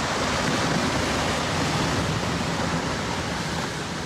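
Rock slide: a steady rushing noise of rock and debris pouring down a collapsing cliff, with no separate impacts standing out.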